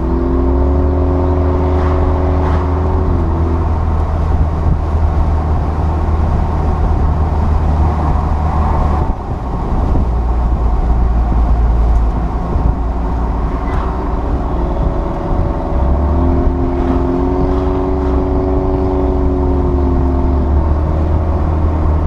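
2008 Saturn Sky Redline roadster driving at cruising speed: a steady low rumble of wind and road noise. Twice the engine's hum rises and falls, in the first few seconds and again from about fifteen to twenty seconds in.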